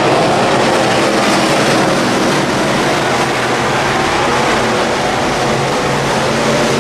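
V8 engines of WISSOTA Midwest Modified dirt-track race cars running at racing speed, loud and steady.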